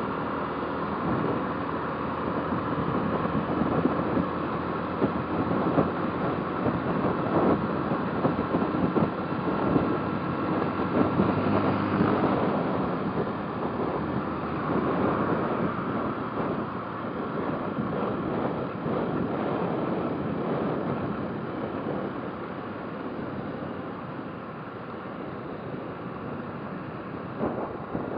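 Motorcycle on the move: steady engine and road noise, with wind buffeting and crackling on the microphone.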